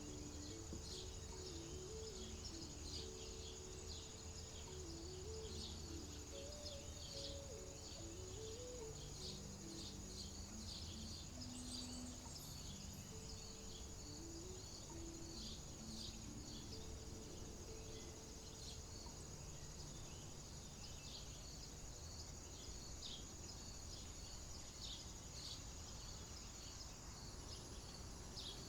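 Field ambience: a steady high-pitched insect drone with many short chirps, over a faint low rumble. Soft, low held tones that shift in pitch come and go through the first two-thirds.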